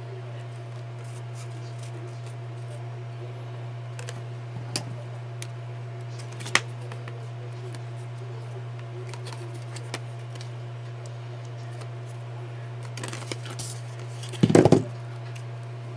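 Paper-crafting handling at a desk: scattered small clicks and taps of tools and embellishments, then a short loud rustle of paper about a second and a half before the end, over a steady low hum.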